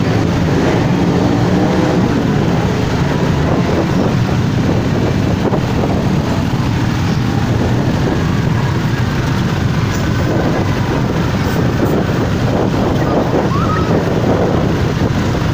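Motorcycle engines running as bikes go by in a steady stream, with wind noise on the microphone.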